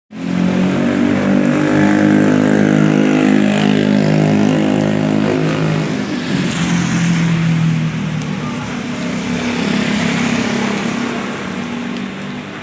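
Hailstorm: a loud, dense hiss of hailstones pelting down, over a steady droning hum that shifts pitch about six seconds in and fades toward the end.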